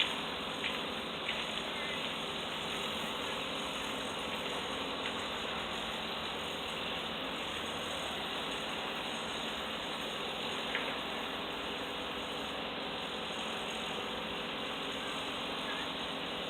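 Steady background noise with a faint hum running through it at a constant level, and a few faint clicks in the first two seconds.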